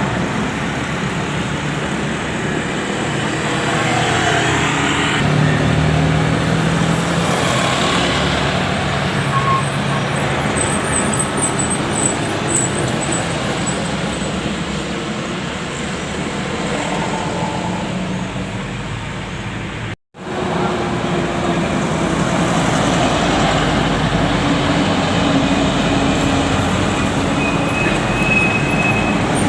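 Road traffic with buses and trucks: engines running and vehicles passing. The sound drops out for an instant about twenty seconds in.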